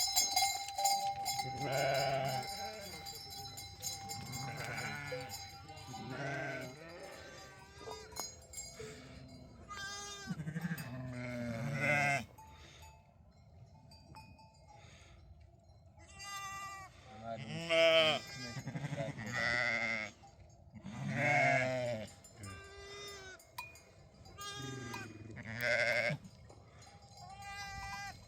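Flock of sheep or goats bleating over and over, many wavering calls overlapping. A livestock bell rings near the start, and the calls ease off briefly just before the middle.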